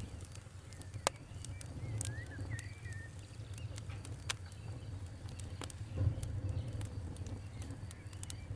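Fire crackling: scattered sharp pops and snaps over a low steady rumble, with one loud pop about a second in.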